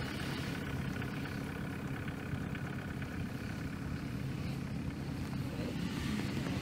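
A car engine running at a steady, unchanging pitch.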